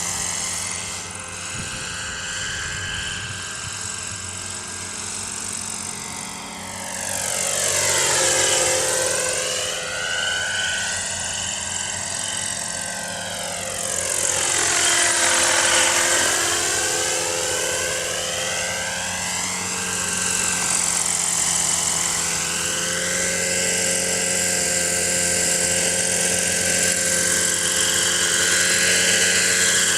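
Kalt Baron Alpha RC helicopter's four-stroke engine running in flight, a steady buzz whose sound sweeps down and back up twice, around eight and sixteen seconds in, as the helicopter moves about.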